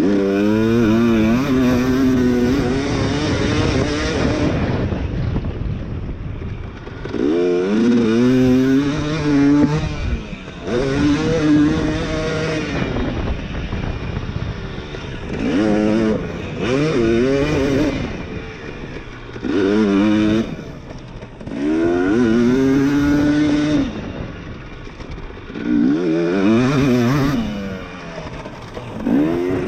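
Two-stroke dirt bike engine being ridden hard, with the throttle opened and shut over and over: the pitch climbs with each burst and drops each time it is backed off, about nine times.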